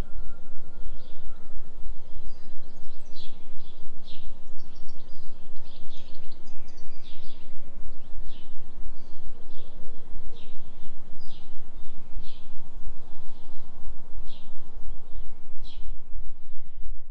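Low synthetic binaural-beat drone pulsing evenly about three times a second, tuned for a 3 Hz delta beat, under a recorded forest ambience in which small birds chirp in short, repeated notes.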